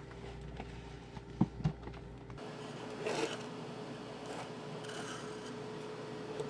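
Handling noises while a power cable is plugged in: two sharp clicks about a second and a half in, then soft rubbing and rustling.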